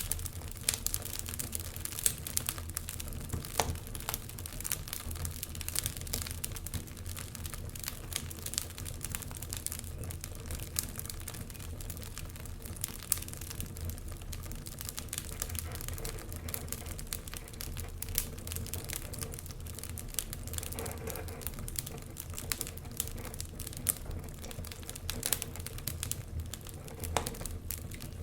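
Wood fire crackling in a fireplace: an irregular run of sharp pops and snaps over a steady low rumble.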